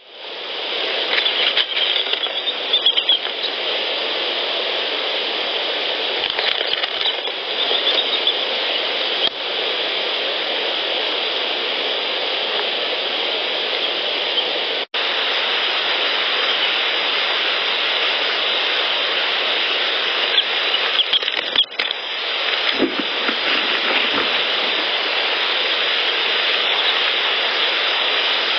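Steady, loud hiss of a heavily amplified outdoor field recording, with faint scattered ticks and rustles from a small animal. The recording cuts to a new clip about 15 seconds in and again about 22 seconds in.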